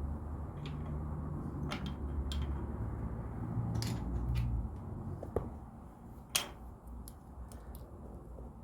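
Small LEGO plastic pieces clicking as they are handled and pressed together, in irregular sharp clicks with the sharpest about six and a half seconds in. A low hum underneath fades out about halfway through.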